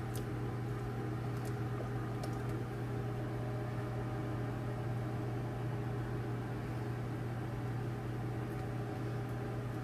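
Microwave oven running with a steady low hum, with a few faint light clicks in the first couple of seconds.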